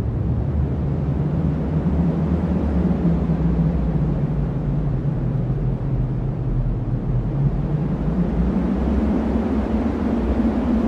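Cyclone wind blowing steadily as a deep, low rumble, without breaks or sudden gusts.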